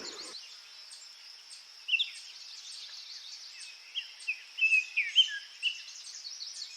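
Small birds chirping in short, quick calls that slide in pitch, a string of them starting about two seconds in, over a steady high hiss.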